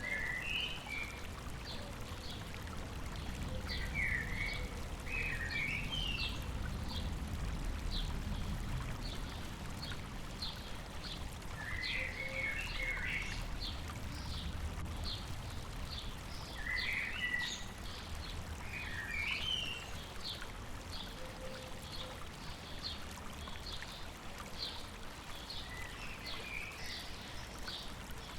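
Birds singing over the steady rush of flowing river water. One bird repeats a short high call about twice a second, while another gives short twittering phrases every few seconds.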